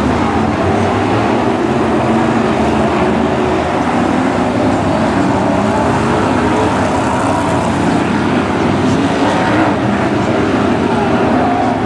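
BriscaF1 stock cars' V8 engines racing together, a loud, continuous drone of several engines whose pitches waver up and down as the cars lap the track.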